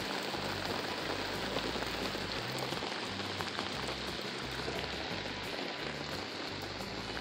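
Heavy rain pouring down, a steady hiss of drops close to the phone's microphone.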